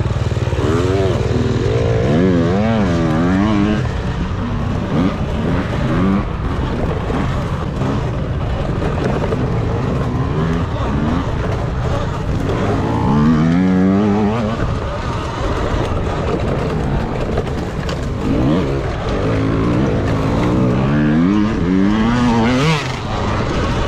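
Dirt bike racing: motorcycle engines revving up and down over and over, over steady riding noise.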